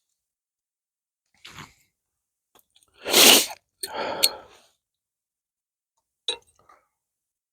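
A person sneezing close to the microphone: a faint breath, then a loud sneeze about three seconds in, with a weaker burst right after it. A short sharp click follows a little after six seconds.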